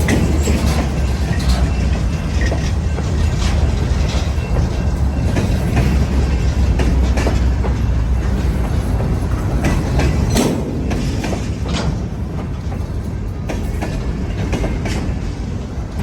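Union Pacific local freight train rolling past, its wheels clicking over the rail joints over a low rumble that eases off about ten seconds in.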